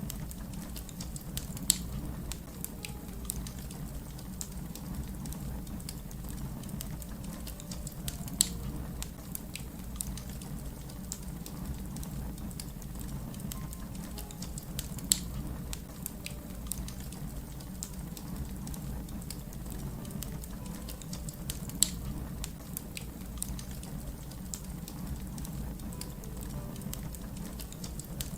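Wood fire crackling over a steady low rumble, with many small snaps and four louder pops about seven seconds apart.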